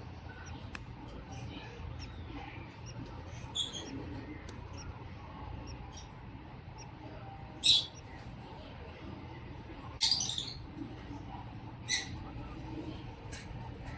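A hatching chick peeping in an incubator: about five short, high peeps spaced a couple of seconds apart, the loudest about eight seconds in, over a steady low hum.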